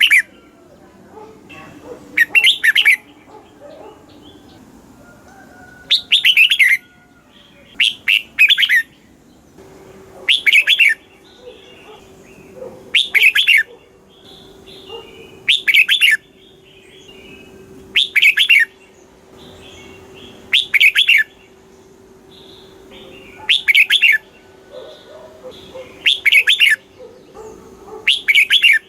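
Red-whiskered bulbul singing short, loud, whistled phrases, repeated about every two and a half seconds, with fainter bird chirps between the phrases.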